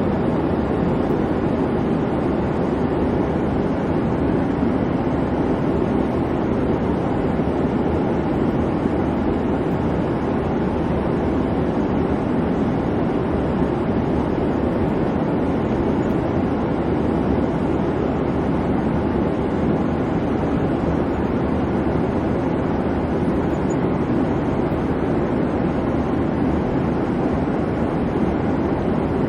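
Airplane cabin noise: the steady, even low hum of the engines, unchanging throughout.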